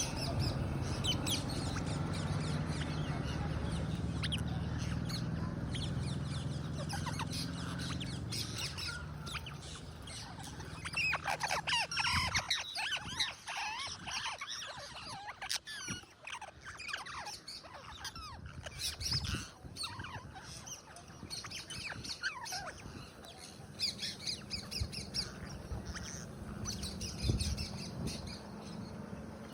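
Flock of rose-ringed (ring-necked) parakeets squawking and chattering, densest with many overlapping calls in the middle stretch. A low steady hum runs under the first third and comes back near the end.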